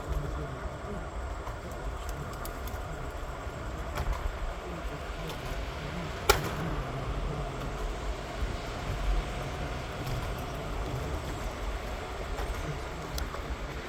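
PATH train running, a steady low rumble, with one sharp click about six seconds in.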